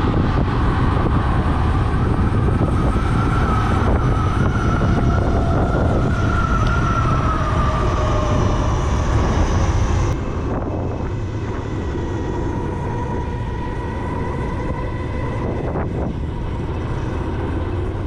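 Riding a 2021 Zero S electric motorcycle: wind rumbling on the microphone over the electric motor's whine, which rises and then falls in pitch with speed. About ten seconds in the wind noise drops, leaving a steadier, quieter whine.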